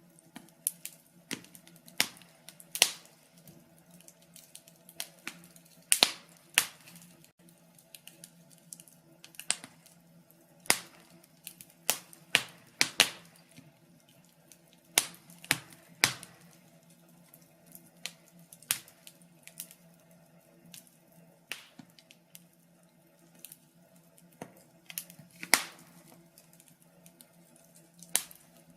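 Wood fire in a fireplace crackling, with irregular sharp pops and snaps several times a second over a faint, steady low hum.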